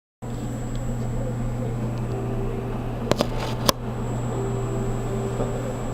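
Steady low hum inside a 783-series limited express train car, the car's running equipment and air conditioning, with a thin high whine above it. A few sharp clicks come a little over three seconds in.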